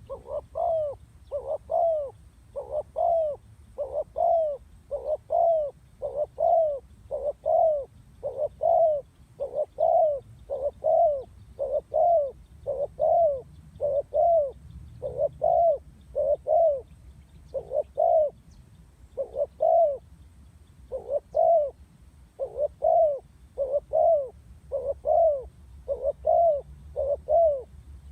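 Female spotted dove giving short, repeated coos, about one every half second to second, in runs broken by brief pauses: the female call used to stir up and lure male doves.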